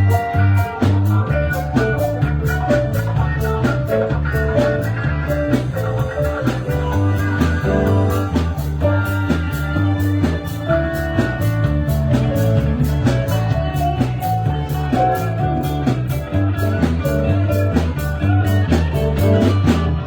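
Live band playing an instrumental passage: guitar notes over a steady bass line and beat.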